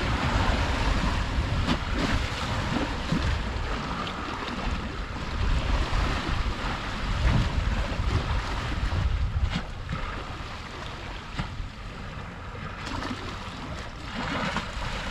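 Sea waves washing in surges, with wind buffeting the microphone as a low rumble; the surging is louder for the first ten seconds or so, then eases.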